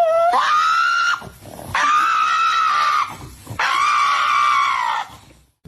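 A dog howling or screaming in three long, high-pitched cries, each held for about a second with a slight rise and fall in pitch.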